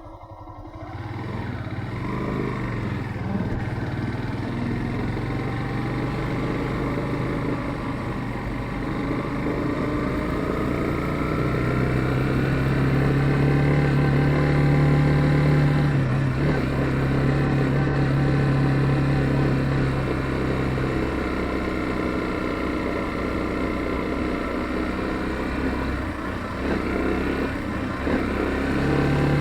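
Yamaha FZ15's single-cylinder engine running under way, its note climbing gradually and then holding steady, easing off for a while and rising again near the end as the throttle changes.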